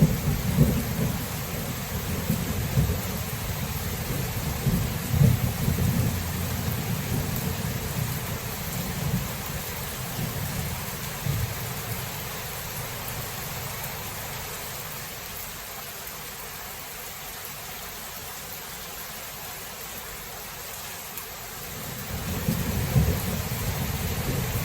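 Thunderstorm: steady rain with rolling thunder. A long low rumble fades away over the first half, rain carries on alone for several seconds, and thunder starts rumbling again near the end.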